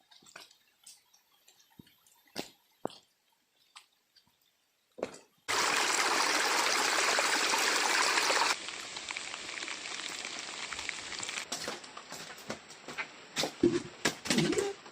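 Heavy rain. Only scattered drips and small knocks at first; a loud downpour starts abruptly about five and a half seconds in, then drops sharply about three seconds later to lighter rain with many drips.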